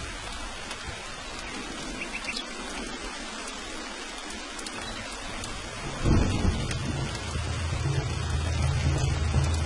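Steady rain falling, an even hiss, with a thunderclap breaking about six seconds in and rolling on as a low rumble.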